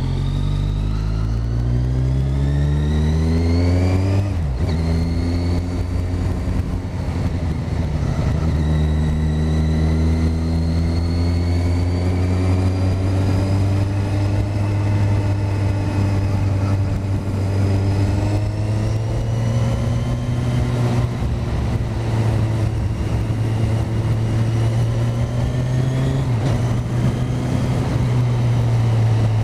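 Motorcycle engine accelerating with a rising pitch, dropping sharply on a gear change about four and a half seconds in, then running at a fairly steady cruise with the pitch slowly rising and falling.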